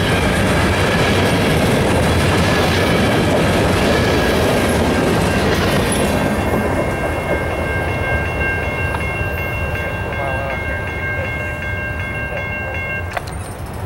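Freight train of covered hopper cars rolling over a grade crossing, wheels rumbling and clacking. The rumble fades after about six seconds as the last car clears, leaving the crossing's warning bell ringing steadily in a high tone until it cuts off with a click near the end.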